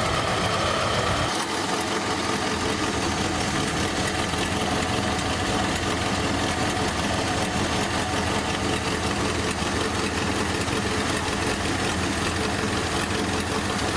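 1955 Packard's V8 idling steadily on its freshly rebuilt Rochester 4GC four-barrel carburetor, with the idle adjusted to run smoothly. A higher tone drops out about a second and a half in.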